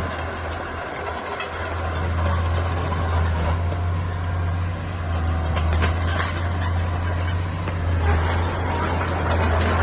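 Heavy diesel engine of earthmoving machinery running with a steady deep drone, easing briefly near the start and then building again.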